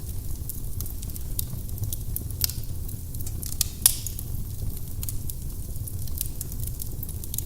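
Firewood burning in a fireplace: irregular sharp crackles and pops over a steady low rumble of the flames, with one louder pop about four seconds in.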